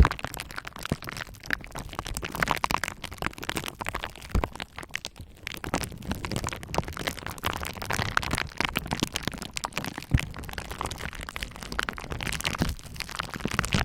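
Bubble wrap popping and crackling: a dense, irregular run of small sharp pops.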